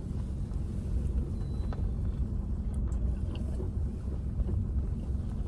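Car rolling slowly along a country road, heard from inside the cabin: a steady low rumble of engine and tyres.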